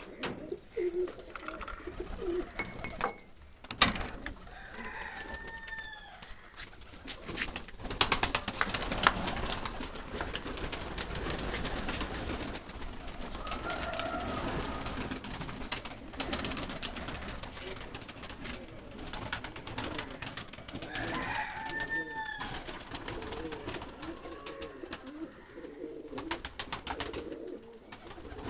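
Domestic pigeons cooing, with a few short higher calls and frequent sharp clicks and scuffles.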